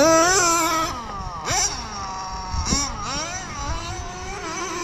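Small .12 nitro two-stroke engine of an RC car running at high revs, its pitch dipping sharply as the throttle is blipped twice, about a second and a half and under three seconds in, then climbing back and holding a steady high whine. It is loudest in the first second.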